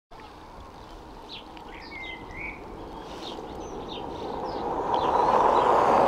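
Small birds chirping and twittering in short, quick calls, while a rushing noise swells up over the last couple of seconds and becomes the loudest sound.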